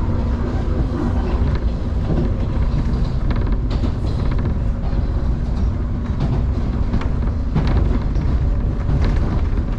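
Electric train running between stations, heard from inside the carriage: a steady low rumble of wheels on rail, with a few short clacks over rail joints.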